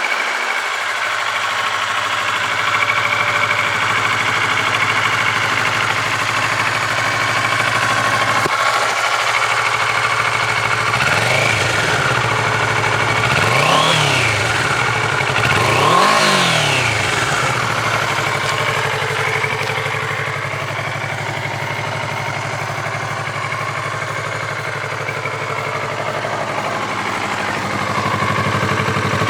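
Kawasaki Ninja 400 parallel-twin motorcycle engine idling through its exhaust, blipped three times about halfway through, each rev rising and falling quickly, then settling back to a steady idle.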